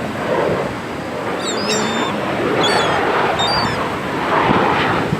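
Gulls calling with several short, high cries over steady wind and surf noise.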